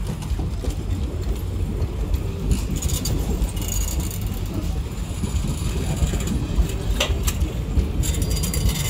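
Passenger train coaches rolling past at speed, with a steady low rumble of steel wheels on the rails. A high-pitched metallic squeal rises about two and a half seconds in and fades after about a second and a half, and a couple of sharp clacks from the wheels crossing rail joints come about seven seconds in.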